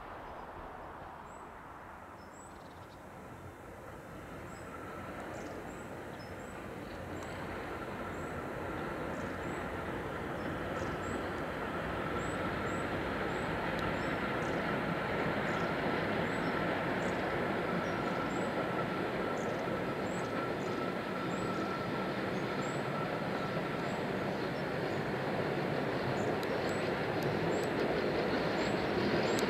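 Electric train running, its rumble growing steadily louder, with a steady high whine joining about a quarter of the way in.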